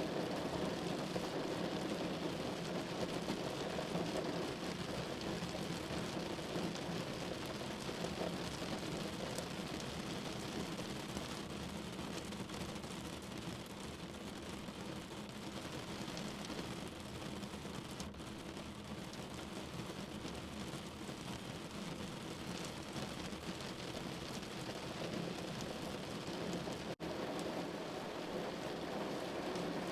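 Steady rain falling on a window, an even hiss of drops with no single strike standing out. Near the end the sound cuts out for an instant.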